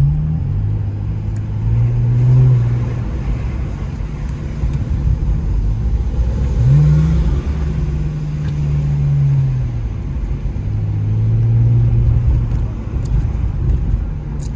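Muffler-deleted Infiniti Q50 exhaust droning at low revs while driving. It swells louder three times under light throttle, and its pitch climbs quickly about seven seconds in.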